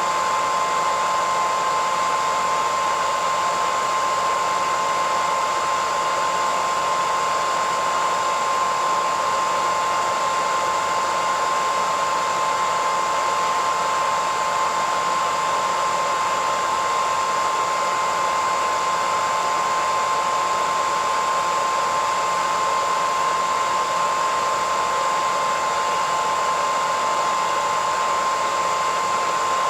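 Electric hairdryer running continuously, a steady rush of air with a high motor whine that holds one pitch.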